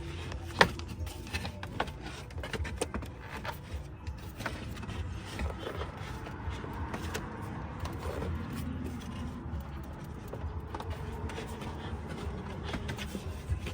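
Plastic cooling-fan assembly scraping and knocking against the radiator housing as it is worked down into place, with scattered clicks and one sharper knock about half a second in; the fan is catching on its connector and will not seat.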